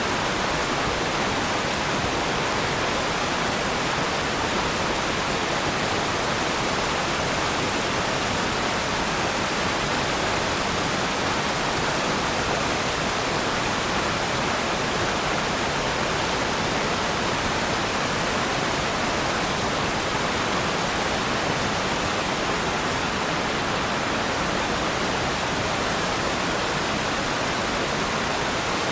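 Waterfall: a steady, even rush of falling water with no changes or breaks.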